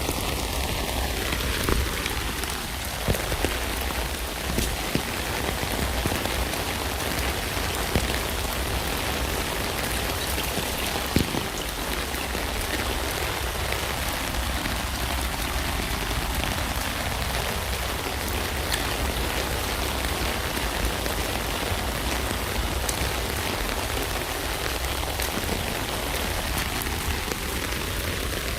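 Steady rain falling on a tent: a dense, even patter with many single drops ticking on the fabric.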